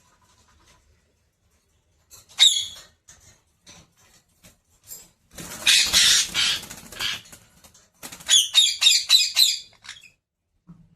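Pet parrot calling: a sharp call about two seconds in, a longer harsh screech around the middle, then a quick run of short calls, about six a second, near the end.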